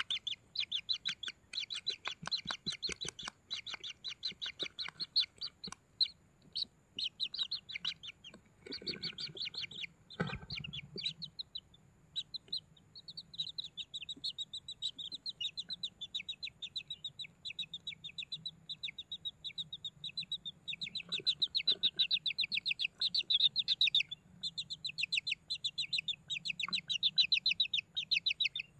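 Kingfisher chicks begging: a near-continuous, rapid train of short, high chirps, many per second, growing louder in the last third. A single knock sounds about ten seconds in.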